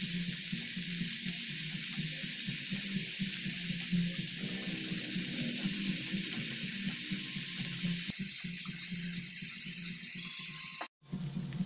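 Ground pork and diced vegetables sizzling steadily in a frying pan as they are stirred with a spatula. The sound breaks off abruptly near the end and comes back quieter and more uneven.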